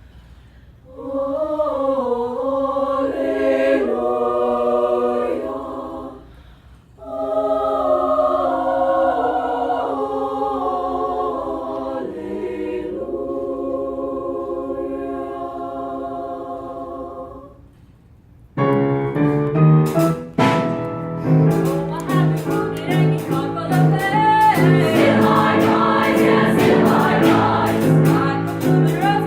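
High school choir singing in three held, unaccompanied phrases with brief breaths between them. About two-thirds of the way through, a fuller, livelier section begins with a steady beat of sharp percussive strikes under the voices.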